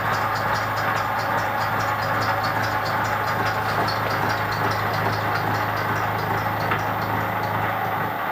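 Milling machine running a gear-tooth cutter through a steel gear blank, cutting a tooth to full depth: a steady motor hum and cutting noise with a light regular ticking about four times a second.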